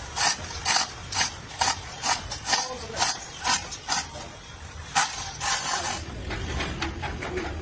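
Sharp mechanical clicks at an even pace, about two a second, then a faster run of fainter clicks near the end.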